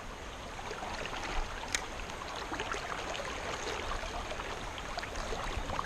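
Creek water running past in a steady rush, with a few faint ticks.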